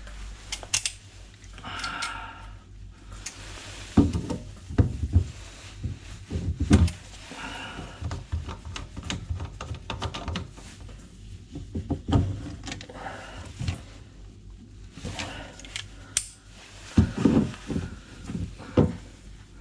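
Irregular knocks, clicks and clatter of hand tools and pipework as a sink trap is worked loose with grips, with a couple of brief squeaks.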